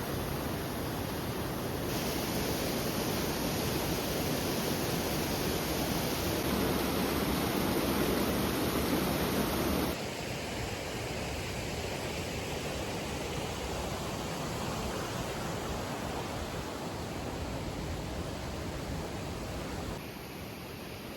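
Steady rush of falling water from a waterfall, a dense hiss with no distinct events. It steps abruptly in loudness and tone a few times: fuller and louder for several seconds after about 2 s in, dropping suddenly about halfway and again near the end.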